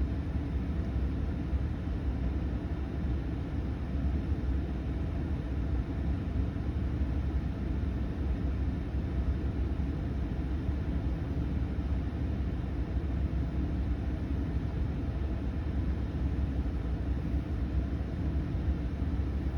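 Steady rush of air from the Ram 1500 pickup's HVAC blower through the dash vents, over a low, even rumble from the idling truck.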